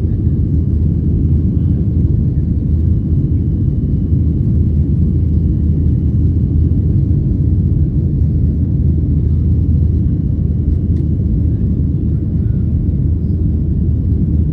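Steady low rumble of a jet airliner's engines and airframe heard from inside the passenger cabin, holding even throughout.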